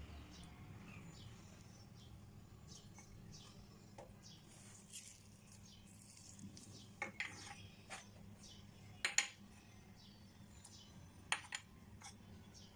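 Kitchenware clinking a few times over a low steady hum, the loudest clinks about nine and eleven seconds in.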